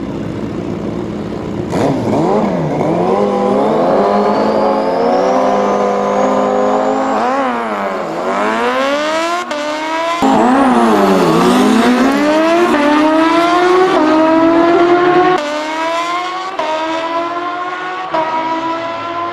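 Sport-bike engine at high revs, accelerating hard down a drag strip. Its pitch climbs steadily, dips and rises sharply twice, then falls and climbs again in quick steps as it upshifts through the gears.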